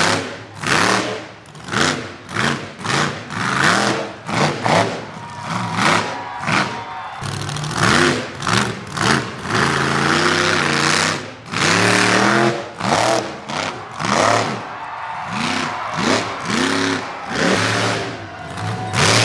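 Monster truck engine revving hard in repeated surges, its pitch climbing and dropping every second or so, with one longer held run partway through.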